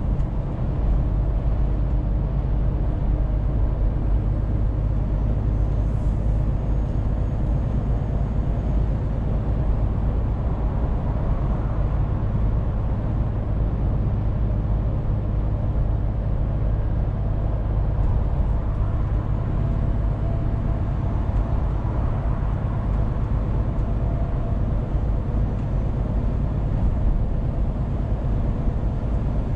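Scania truck engine running steadily under way, a continuous low drone mixed with road noise.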